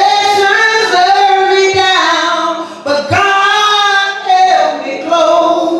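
Voices singing without instruments, long held notes that slide between pitches, with a short break about three seconds in.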